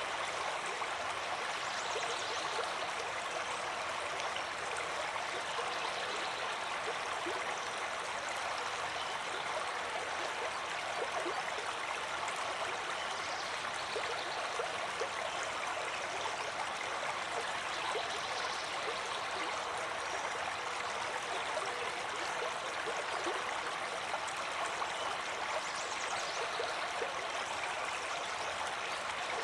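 Stream water flowing steadily, with a continuous rushing babble and small splashes throughout.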